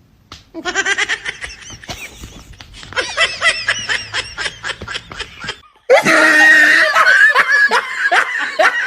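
Human laughter in quick rhythmic bursts. After a short break about six seconds in, a louder, shriller stretch of laughter follows.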